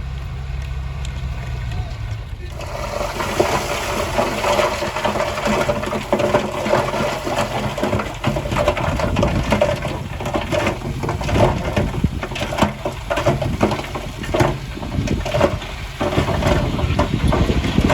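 Bulldozer working gravel and stones: a low steady engine hum at first, then from about two and a half seconds in a dense run of crunching and clattering knocks over the running engine.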